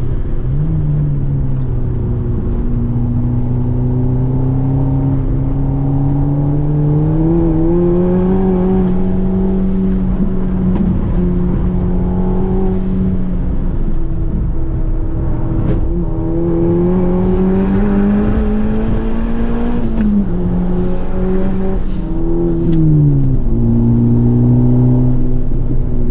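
Turbocharged Volkswagen track car's engine heard from inside the cabin on a lap of a road course. The revs climb slowly under load, hold, then drop several times as the driver lifts or shifts, with the sharpest fall near the end.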